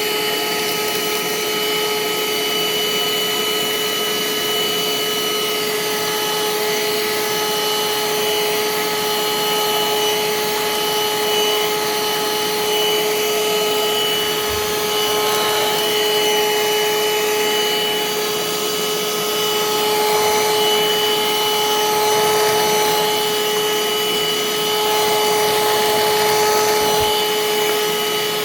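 Parkside PHSSA 20-LI A1 20 V cordless wet-and-dry vacuum cleaner running steadily at full power during a suction test, a constant motor whine over rushing air.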